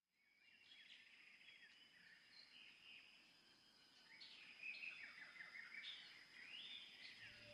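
Faint birdsong: several birds chirping and trilling over a steady high-pitched tone, fading in over the first second.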